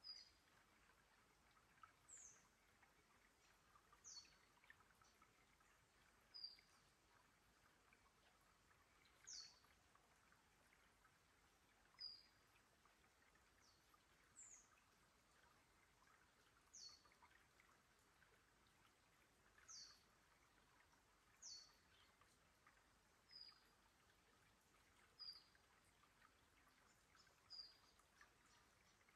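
A bird repeats a short, high whistle that falls in pitch, about once every two seconds, over a faint, even hiss of a shallow trickling creek.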